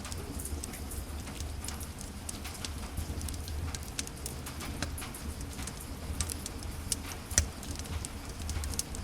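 Wood fire crackling in a fireplace: irregular snaps and pops over a low rumble, with one louder pop about seven and a half seconds in.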